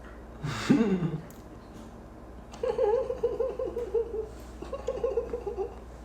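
A man laughing: a short vocal outburst about half a second in, then two stretches of quick, high-pitched giggling.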